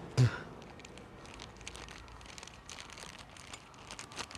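Faint scattered clicks and rustling from clutch plates and their packaging being handled, with a brief voice sound right at the start.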